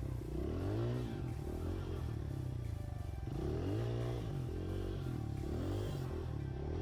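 Small pit bike engine revving, its pitch rising and falling in repeated sweeps as the throttle is worked on and off.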